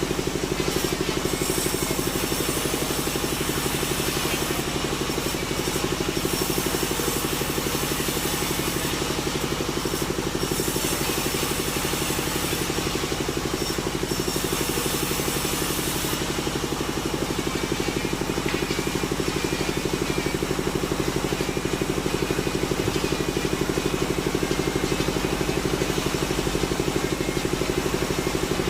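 Sawmill machinery running steadily with a constant engine-like hum.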